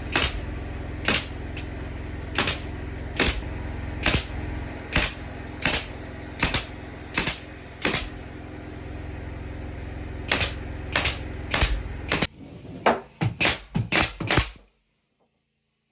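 Sharp knocks or clicks, about one a second, over a steady low motor hum. The hum stops about twelve seconds in, a quick run of knocks follows, and then the sound drops away.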